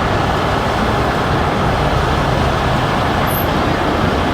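Steady, loud vehicle noise with a low rumble, as of a motor vehicle running close by.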